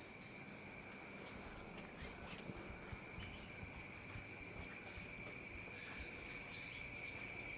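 A chorus of insects trilling steadily, several high, level pitches held continuously and growing gradually louder.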